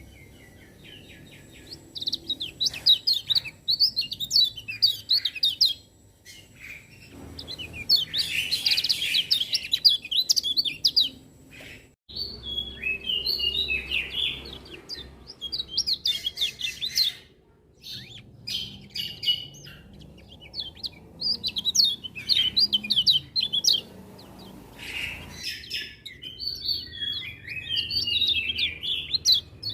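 Kecial kuning white-eye singing: rapid, high twittering song phrases in repeated bursts, with brief pauses between them.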